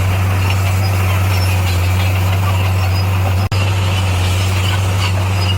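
Diesel engine of an SDLG motor grader running steadily with a deep, even hum. The sound breaks off for a split second about three and a half seconds in, then carries on unchanged.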